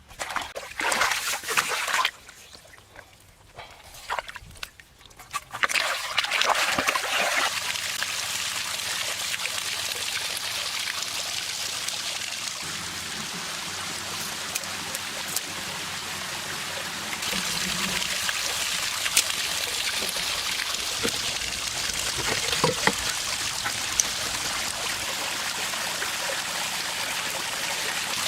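Water pouring and trickling steadily from an artificial waterfall, starting after a few short, uneven splashes in the first five seconds.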